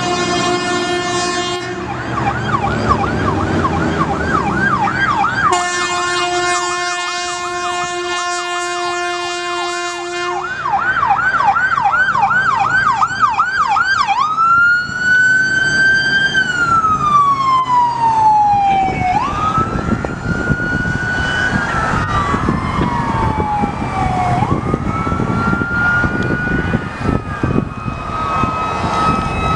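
Emergency vehicle sirens, with no speech. A steady, rich horn blast sounds twice over a rapid electronic yelp. The siren then changes to long wails that rise quickly and wind down slowly, and a second wailing siren overlaps it in the second half.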